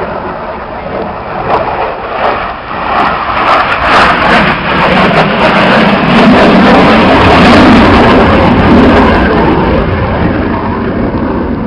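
Military jet flying past: a loud jet roar that swells to a peak over several seconds and then slowly fades.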